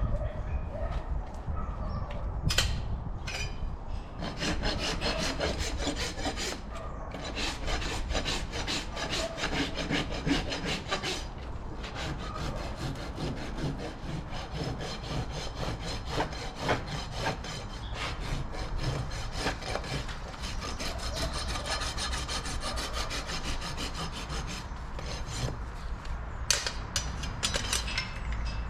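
Farrier's rasp filing a horse's hoof wall: rapid, repeated scraping strokes with a couple of short pauses.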